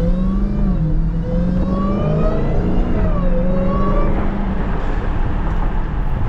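Supercharged 6.2-litre Hemi V8 of a Dodge Charger Hellcat running while driving, its note wavering up and down with the throttle for the first few seconds, then settling to a steady cruise, over steady road noise.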